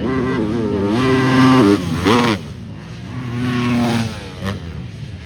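250cc four-stroke motocross bikes revving hard as they ride past. The engine pitch climbs, drops sharply about a second and a half in as the throttle is chopped, then rises again, with another rev near the end.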